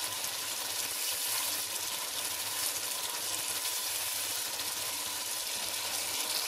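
Spice masala frying in oil in a cooking pot: a steady sizzle while it is stirred with a wooden spoon.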